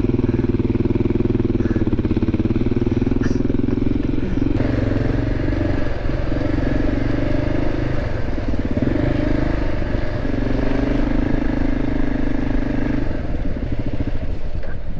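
Motorcycle engine revving in a string of long throttle pushes with short dips between them. The bike is stuck in mud and its rear wheel is catching without getting grip.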